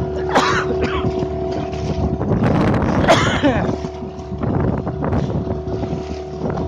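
Motorboat's outboard engine running steadily, with wind buffeting the microphone. Two loud splashing bursts, about half a second in and about three seconds in, are typical of the hull slapping into waves in rough water.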